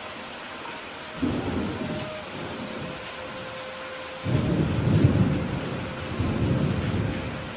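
Steady rain falling with thunder rumbling twice: a short rumble about a second in, then a longer, louder one from about four seconds in.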